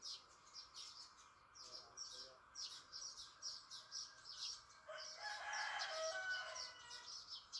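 A rooster crows once, about five seconds in, for roughly two seconds, over continual rapid high-pitched chirping.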